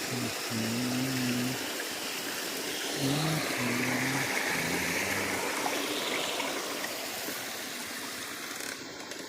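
Stream water flowing steadily. A low pitched hum comes and goes in short stretches during the first half.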